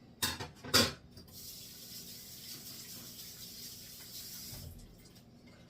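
Kitchen sink faucet running steadily for about three and a half seconds while hands are washed, then shut off. Two short clatters come just before the water starts.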